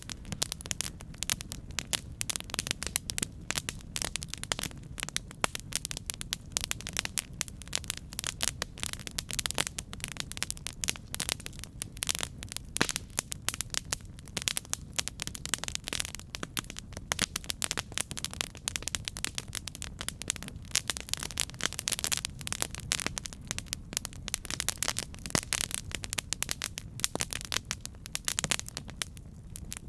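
Campfire burning, with dense, irregular crackling and snapping over a steady low rumble of the flames.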